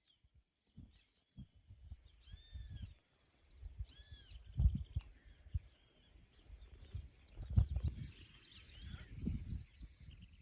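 A bird giving two short arched calls a couple of seconds apart, over a steady high whine and scattered low rumbling bumps on the microphone.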